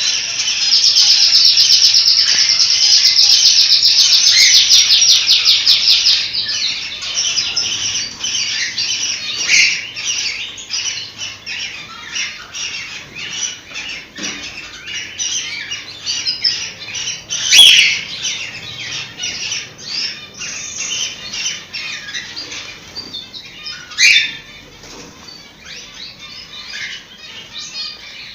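Cockatiels chirping and chattering in a dense, continuous run of high chirps, loudest over the first few seconds, then broken by two sharp, louder calls later on.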